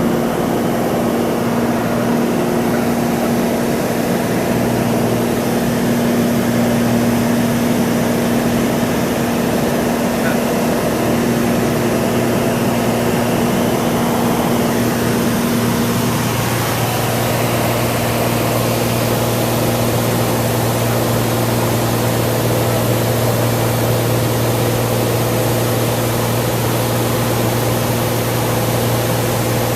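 Cessna 182 single-engine piston plane in flight: a steady engine and propeller drone, its note shifting slightly about halfway through.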